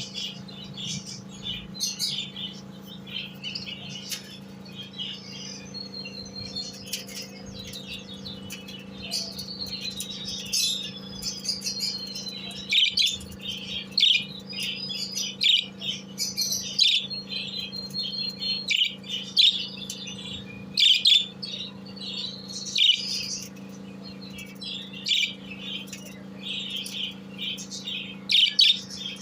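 A flock of small aviary birds chirping and twittering continuously, with a few gliding whistles, over a steady low hum.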